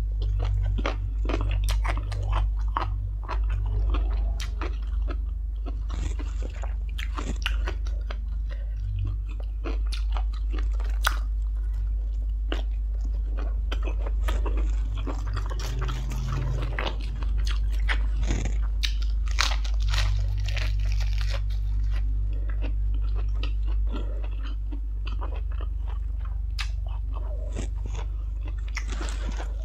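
Close-miked chewing and crunching of stir-fried instant noodles and green papaya salad. Many small, irregular wet clicks and crisp crunches come with each bite.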